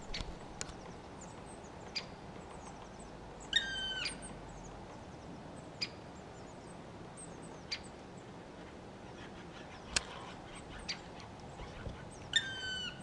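A bird calls twice, one drawn-out call of about half a second a few seconds in and another near the end, over scattered sharp clicks.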